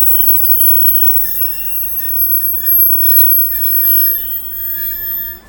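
Passenger train arriving behind a 2M62U diesel locomotive, its wheels and brakes squealing as it slows at the platform: several steady high-pitched squeals over a low rumble.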